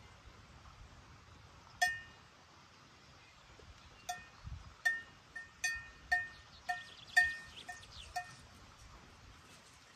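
A single metal cowbell clanking irregularly on a moving animal: one ringing clank about two seconds in, then a run of about a dozen uneven clanks from about four to eight seconds in.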